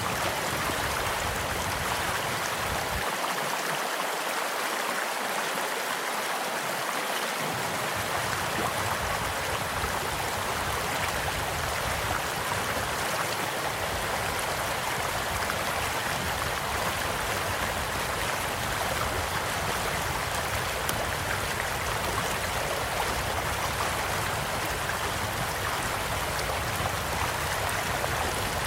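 Small stream flowing steadily with an even rush of water, with faint scattered crackles from a wood campfire beside it.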